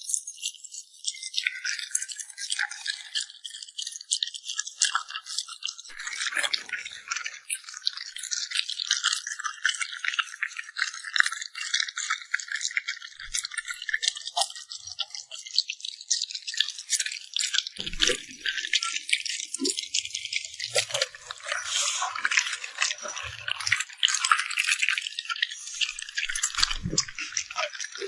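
Dog eating: a dense, rapid run of crisp clicks and crunches, wet mouth and lip-smacking sounds of chewing.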